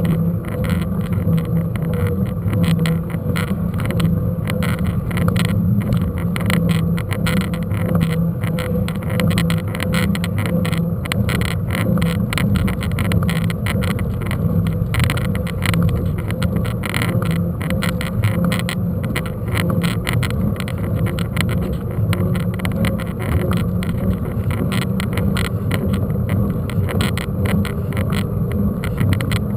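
Mountain bike being ridden: a steady low rumble with constant rattling clicks.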